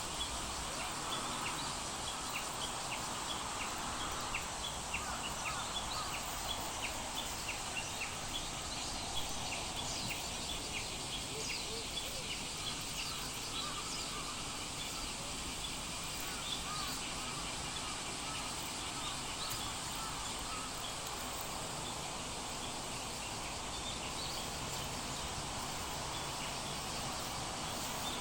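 Outdoor ambience: a steady hiss with many short, high chirps of small birds, coming thickly in the first dozen seconds and more sparsely after.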